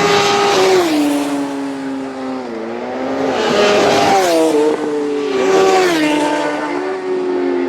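Racing motorcycles passing at speed on a closed public-road circuit, one after another: the engine note swells as each comes by, about half a second, four and six seconds in, and the pitch drops in steps as the riders change gear or shut off.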